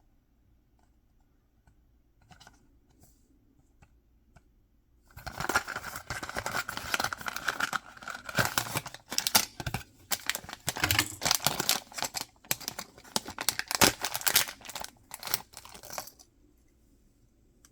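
Mystery-box packaging being opened by hand: a few faint taps, then about eleven seconds of crackly tearing and crinkling of the wrapping with many sharp clicks, starting about five seconds in and stopping suddenly.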